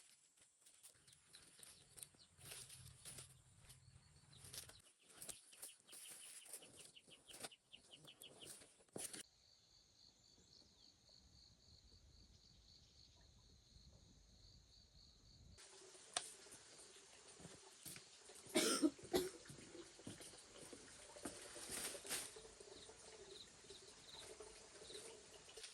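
Chickens clucking at low level amid scattered clicks and knocks, with a steady high whine through the quieter middle stretch and two louder sharp sounds about two thirds of the way in.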